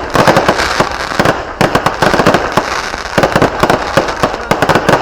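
Fireworks going off in a dense, continuous barrage: many sharp cracks and pops a second over a constant crackling.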